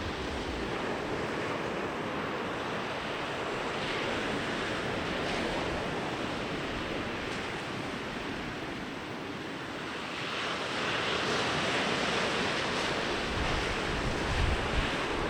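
Ocean surf: waves breaking and washing up the beach in a steady rush that swells louder about two-thirds of the way through. Wind buffets the microphone with low rumbles near the end.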